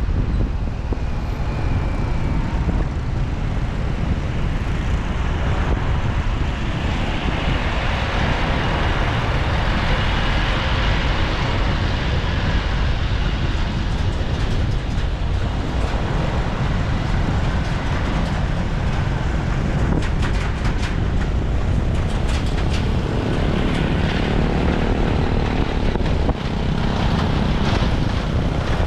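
Motorcycle engine running while riding, with a steady rumble of wind on the microphone.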